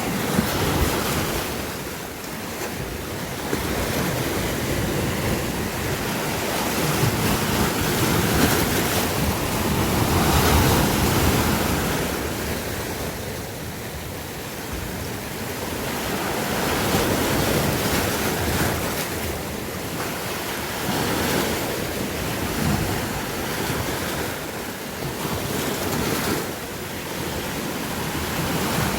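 Sea surf: waves washing in and breaking, the rush swelling and ebbing every several seconds.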